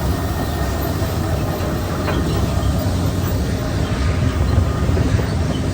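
Feed mill machinery running: a steady, loud low rumble with no breaks.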